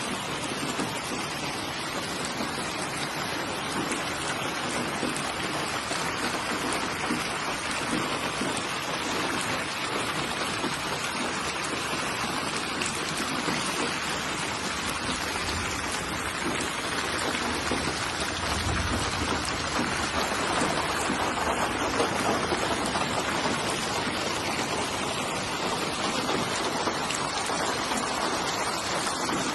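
Steady rain falling, an even hiss of many drops without pause, with a brief low rumble about two-thirds of the way through.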